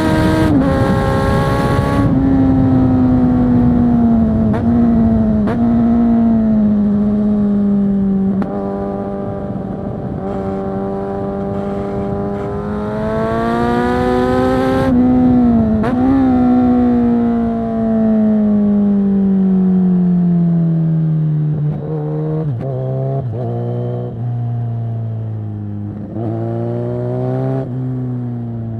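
2022 Kawasaki Z900 SE inline-four through a Zard full-system exhaust, loud, with engine speed rising and falling as the rider accelerates and rolls off between corners, with wind noise at speed. Engine speed falls steadily through the middle, then short quick revs and dips near the end as the bike slows.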